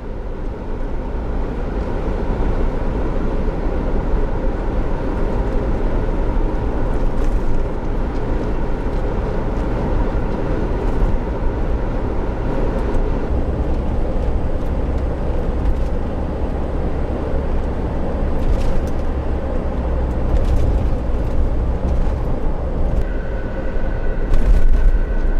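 A vehicle running steadily: a continuous low rumble with a faint steady hum over it, a slightly higher hum joining near the end.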